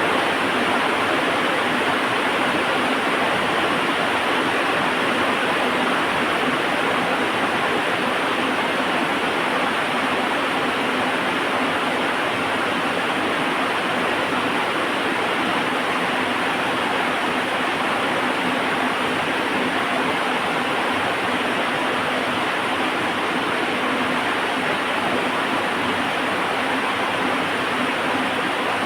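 Heavy rain falling in a steady, even rush with no breaks or thunder.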